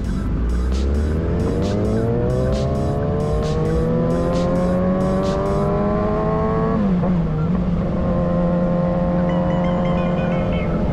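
Kawasaki Ninja inline-four sport-bike engine running at speed, its pitch rising steadily for about six seconds, dipping briefly about seven seconds in, then holding steady.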